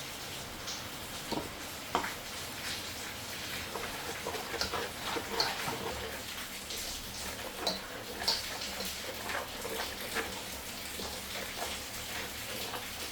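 Steady rain, with scattered light clicks and knocks over it.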